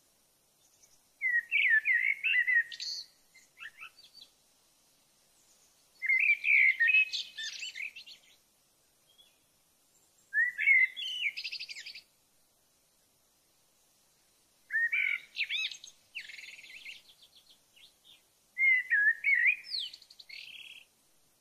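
A songbird singing five short warbling phrases of quick rising and falling notes, a few seconds apart, with near silence between them.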